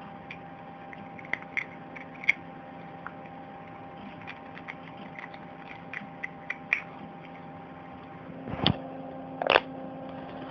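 Scattered soft clicks and taps over a steady hum, with two louder knocks or scrapes near the end.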